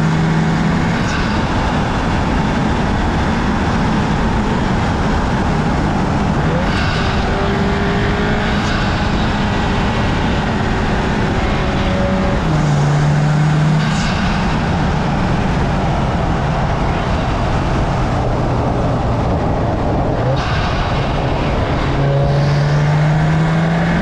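Audi S3's turbocharged four-cylinder engine pulling the car along at road speed, heard from outside with heavy tyre and wind noise. The engine note steps up and climbs under throttle about halfway through and again near the end.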